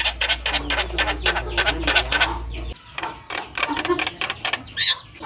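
Javan myna (jalak kebo) chattering: a fast run of harsh, clicking notes mixed with short rising whistles. A low hum underneath cuts off suddenly about halfway through.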